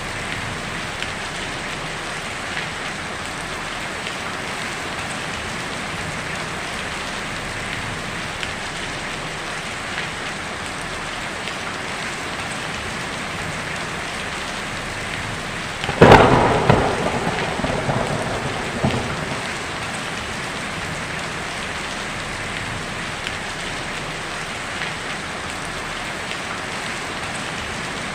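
Heavy rain drumming steadily on a tin roof, with a single sharp thunderclap about halfway through that rumbles and fades over a few seconds.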